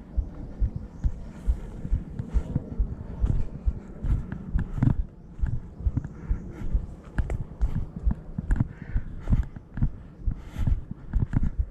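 Irregular low thuds, knocks and scuffs, several a second, of footsteps and handling noise while climbing down a steep hill trail.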